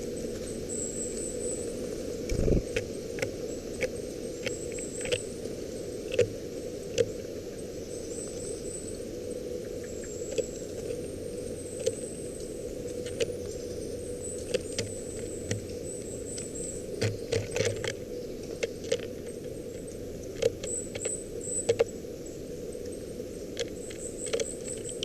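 Eurasian nuthatches tapping and pecking close to the nest-cam microphone: irregular sharp clicks and knocks, sometimes in quick clusters, over a steady hiss, with faint high chirps now and then.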